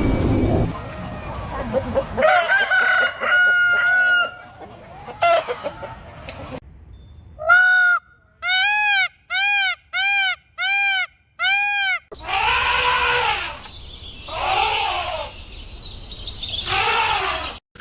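Chickens and a rooster calling in several spliced clips. Drawn-out pitched calls come first, then a run of six short, evenly spaced calls. Three longer, hoarse calls follow.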